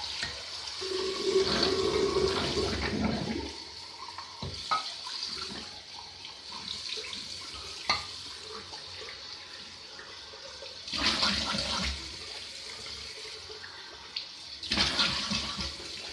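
Water tap running into a sink. There are louder bursts of splashing at about a second in, again around eleven seconds and near the end, and a couple of sharp clicks between them.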